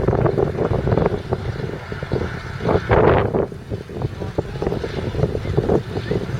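Large diesel tractor engine running steadily, a low rumble with irregular surges.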